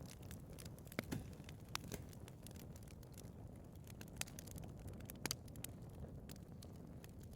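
Wood fire burning in a fireplace, crackling: a steady stream of small snaps over a low rumble, with a few louder pops about a second in, just before two seconds and a little past five seconds.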